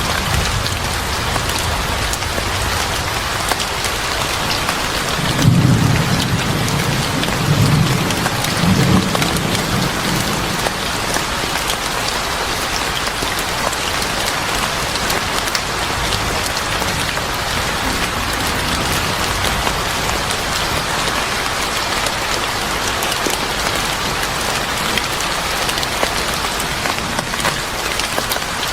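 Steady heavy rain, with a low rumble of thunder rolling in about five seconds in and fading out after several seconds.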